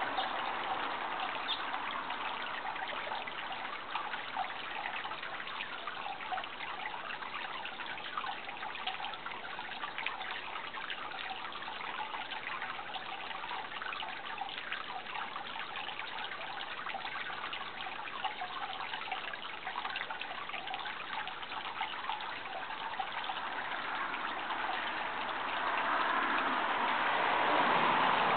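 Water trickling and running steadily, like a small stream or brook, with a swell in loudness near the end.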